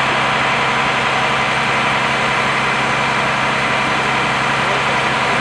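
Heavy engine of a fire truck idling steadily under a constant loud hiss.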